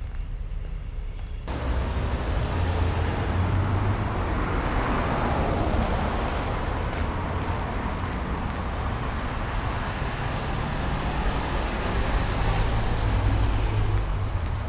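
Road traffic on a city street: a steady rumble of passing cars, swelling twice as vehicles go by. It steps up suddenly about a second and a half in.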